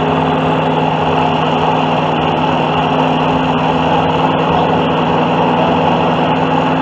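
Small gasoline engine of a walk-behind DR field and brush mower running steadily at an even speed.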